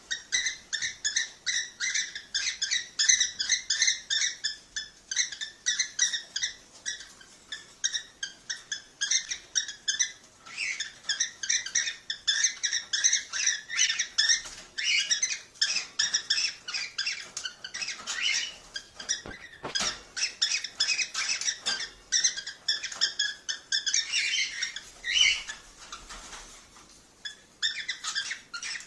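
Cockatiels calling in a fast, continuous stream of short, high chirps, the kind of chatter played to prompt breeding, with a brief lull near the end.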